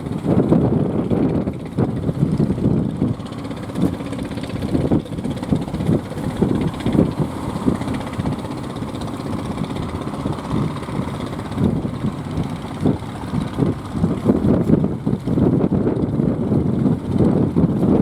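Strong sea wind buffeting the microphone: a loud low rumble that surges and eases in irregular gusts.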